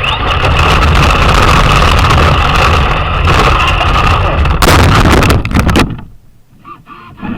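Traxxas Slash RC car running hard, its electric motor whining over loud rattling tyre and chassis noise. A burst of clattering comes between about four and a half and six seconds in, and then the sound cuts off suddenly as the car stops.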